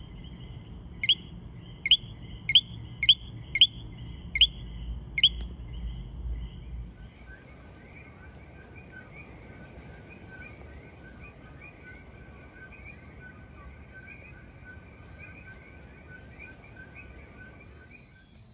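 Puerto Rican frogs calling: first one frog's sharp, high chirps repeated about every half second, then, about seven seconds in, a fainter dense chorus of many frogs chirping over one another.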